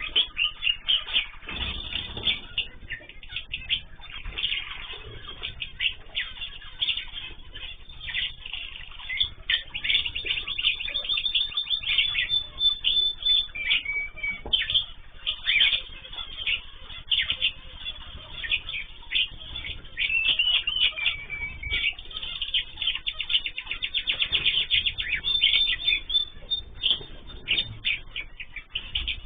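Many small cage birds chirping at once: a dense run of short, quick calls with a few longer held notes now and then.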